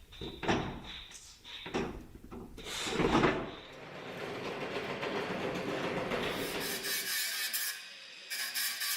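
Car bumper being fitted to the body: rubbing, scraping and knocks of the bumper against the car, with the loudest scrape about three seconds in, then a steadier rubbing noise. Near the end the sound changes to a steady hiss with faint tones.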